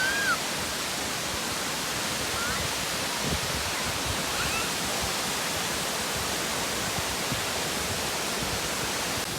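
Bomburu Ella, a wide waterfall, pouring with a steady, even rush of falling water. A few faint high chirps sound over it.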